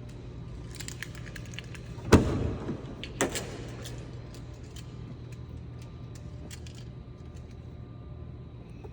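Car engine running steadily, with scattered light clicks and two sharp knocks about two and three seconds in.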